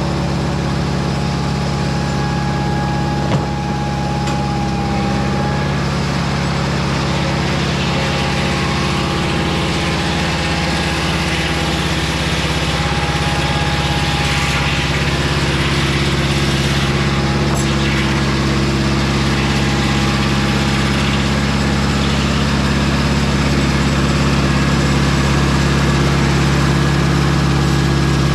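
The engine of a Mobile Dimension circular-blade sawmill running steadily, growing slightly louder toward the end, with a single brief knock about three seconds in.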